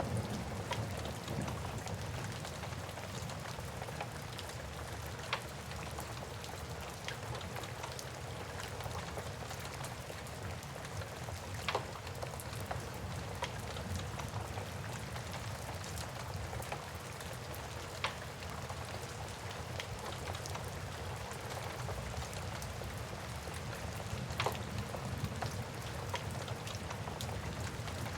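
Steady rain, with a log fire crackling: a few sharp, isolated pops, one every few seconds.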